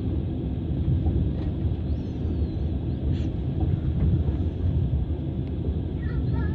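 Steady low rumble of a moving passenger train's wheels on the rails, heard from inside the carriage.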